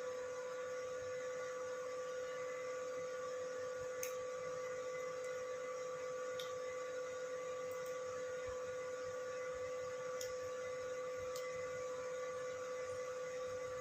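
A steady electrical hum, one even tone with fainter overtones above it, with a few faint ticks.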